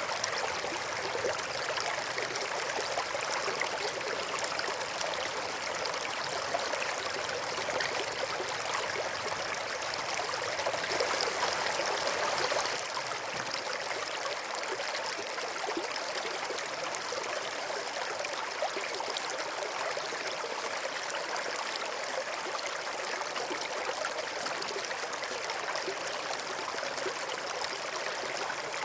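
Stream water flowing with a steady rushing and trickling, a little softer from about halfway through.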